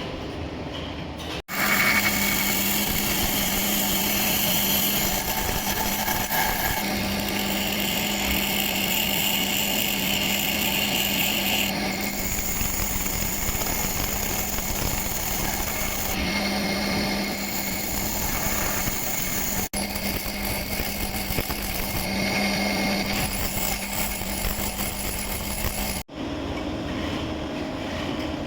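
Machine-shop grinding machine running steadily, its wheel grinding metal with a continuous hiss over a steady motor hum. The sound breaks off sharply and resumes at cuts about 1.5 s, 20 s and 26 s in.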